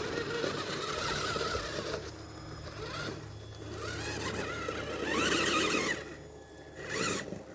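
Electric motor and drivetrain of a Tamiya TXT-2 RC monster truck whining under throttle, rising and falling in pitch in several surges, the loudest a little past the middle, as the finicky speed control is worked.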